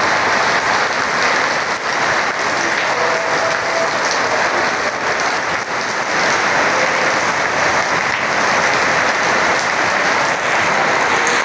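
Rain falling steadily: a loud, even hiss that does not let up.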